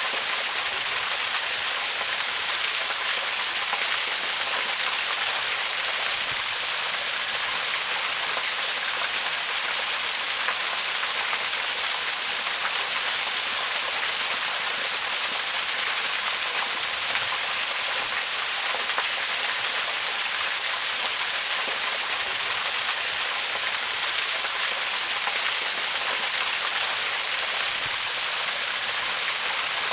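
Waterfall: falling water rushing in a steady, unbroken hiss, its sound mostly high and bright with little low rumble.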